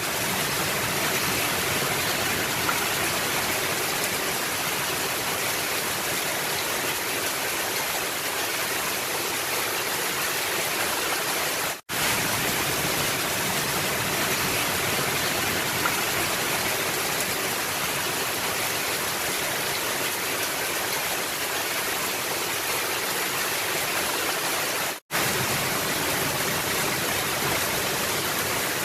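Rain falling steadily on a roof, a dense, even hiss. It cuts out for a split second twice, about twelve and twenty-five seconds in.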